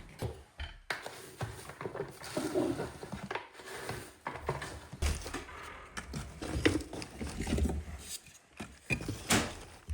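Irregular light knocks and clatter of things being handled, with no clear rhythm.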